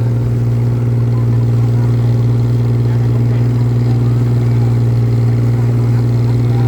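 An engine running at a steady speed: a constant low drone whose pitch does not change.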